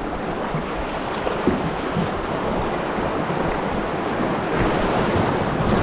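Steady rush of whitewater around a canoe running a river rapid at high spring water.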